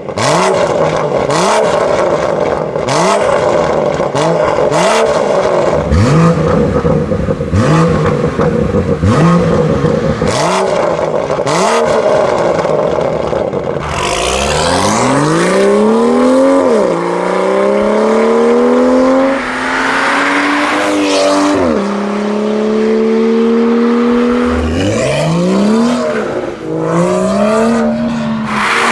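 BMW M2 F87's turbocharged straight-six through an Akrapovič exhaust, revved in about ten quick blips with crackles over the first half. It then accelerates hard, its pitch climbing through each gear and dropping suddenly at every upshift.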